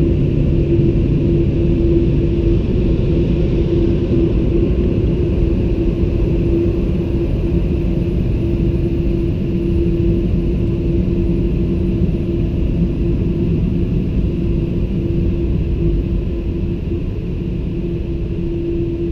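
Automatic car wash air dryer blowers running steadily, a loud, even rush of air with a constant hum through it.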